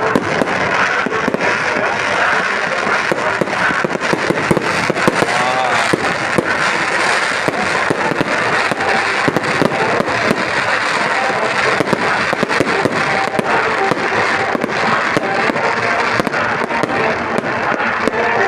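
Crackling fireworks: a dense, steady crackle of many small pops, several a second, sounding continuously.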